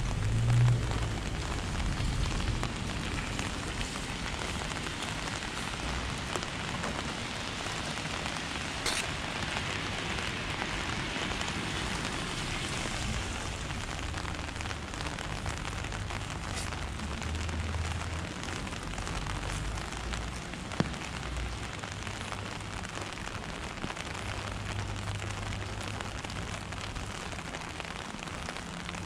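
Steady rain falling, a continuous hiss of drops, with low rumbling at times and a single sharp click about twenty seconds in.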